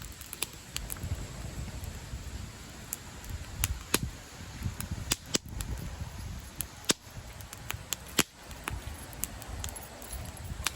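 Wood campfire crackling: irregular sharp pops and snaps from the burning wood, the loudest about four seconds in and again around eight seconds, over a low rumble from the flames.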